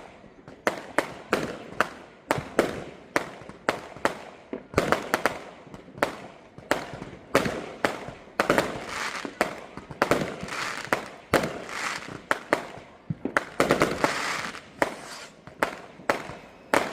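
Many Bonfire Night fireworks going off in quick, irregular succession: sharp bangs about two a second, with stretches of crackling between them.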